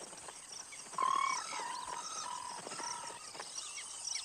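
A bird calling in a run of short, level notes, the loudest about a second in, over a steady chorus of high insect-like chirps.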